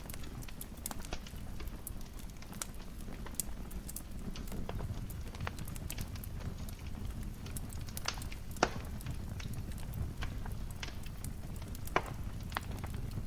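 Wood fire crackling in a fireplace: irregular sharp pops and snaps over a steady low rumble of the burning, with two louder pops, one a little past the middle and one near the end.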